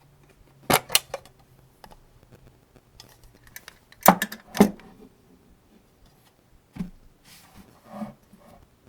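Cartridges being pressed one at a time into a 75-round AK-47 drum magazine: sharp clicks, two in quick succession about a second in and again about four seconds in, then single clicks near the end.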